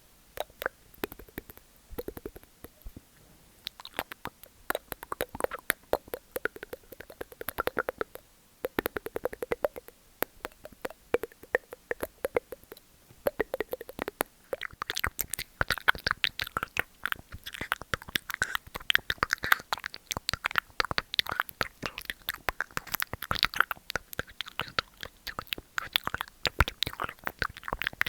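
Close-miked ASMR mouth sounds: rapid wet tongue clicks, smacks and pops, denser and brighter from about halfway through.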